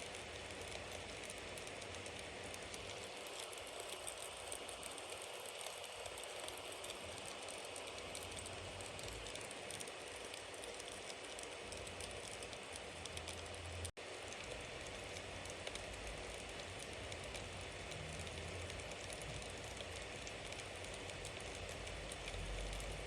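Wood fire burning, a steady hiss dotted with many small crackles; the sound cuts out for an instant about two-thirds of the way through.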